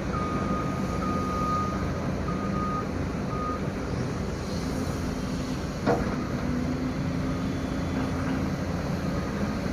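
Heavy diesel machinery running steadily, with a high beeping alarm tone sounding on and off through the first three and a half seconds and a single sharp knock about six seconds in.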